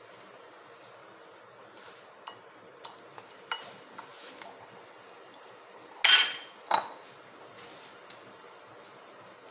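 Kitchen crockery and utensils clinking: a few light taps, then two louder ringing clinks about two-thirds of the way through. This is the handling of the dish while fish slices are coated in semolina.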